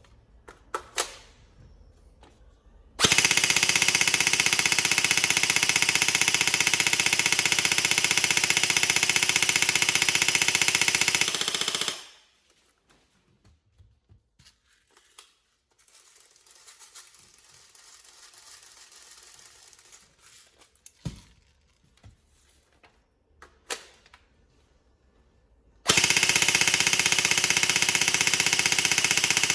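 G&G Firehawk airsoft electric gun (AEG) gearbox firing on full auto from an 11.1 V LiPo: a few clicks, then a long continuous burst of about nine seconds. After a quiet stretch with scattered clicks, a second long burst starts about 26 seconds in. This is a function test after a repair for a piston head that had come off.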